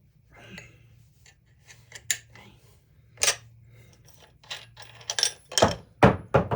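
Metal clinks and knocks of a cutoff wheel being swapped onto an angle grinder: scattered light clicks, two sharper clinks about two and three seconds in, then a run of louder knocks near the end.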